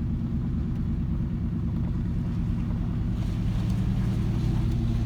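A road vehicle's engine running steadily under way, heard from inside the vehicle, with a low rumble of engine and road noise; the engine note rises a little about three seconds in.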